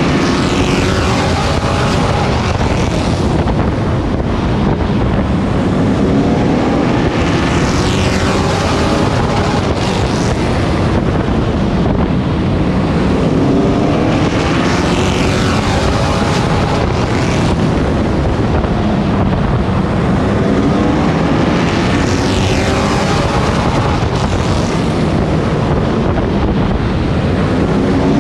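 On-board sound of a Pro Truck race truck's engine at racing speed. The revs climb and fall about every seven seconds, and wind rushes over the microphone.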